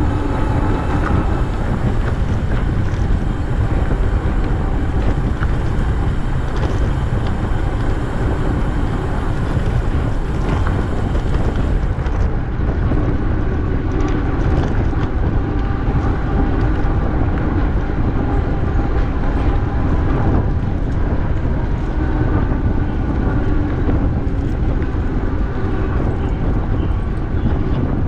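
Steady rumble of wind on the microphone and bicycle tyres rolling while riding.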